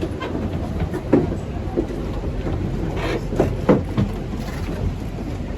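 Steady low rumble with wind on the microphone, broken by a few short faint sounds about a second in and again a little after three seconds.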